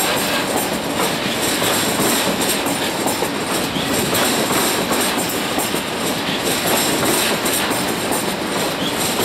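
Train running past on the track: a steady, loud rush of wheel and rail noise with faint irregular clatter.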